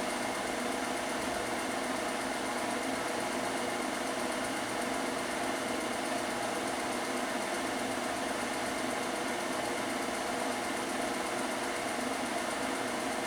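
Film projector running steadily, its motor and mechanism giving an even mechanical hum and clatter with no change throughout.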